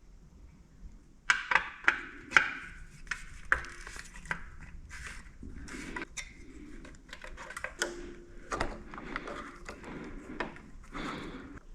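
Metal tools and parts clinking and knocking by hand: a run of sharp clicks, knocks and rattles starting about a second in.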